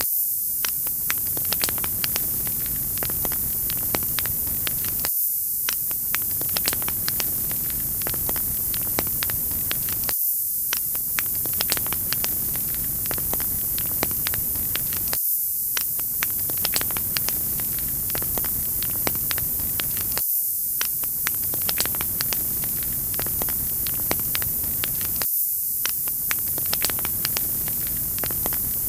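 Wood fire crackling, with many small sharp pops and snaps over a steady hiss. The same few seconds of crackle repeat about every five seconds.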